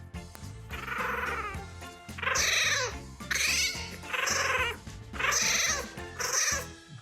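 An animal crying out repeatedly in drawn-out, high calls that bend in pitch, about six of them, over background music.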